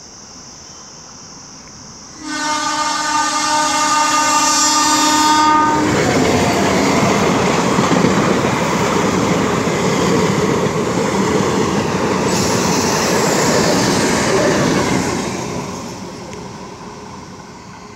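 A steady high-pitched insect drone, then about two seconds in a diesel multiple-unit passenger train sounds its horn for about four seconds. The train then passes close by with a loud rolling rumble and wheel clatter that fades near the end.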